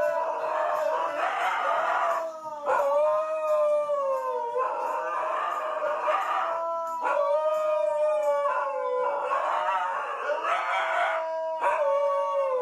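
A dog howling in a series of long, wavering notes, each a couple of seconds long, sliding down in pitch at the end.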